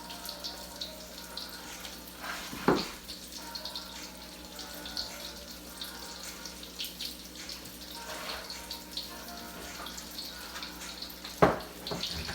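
Water running and splashing in a kitchen sink, with scattered light ticks and clinks, and two sharper knocks, one about three seconds in and one near the end.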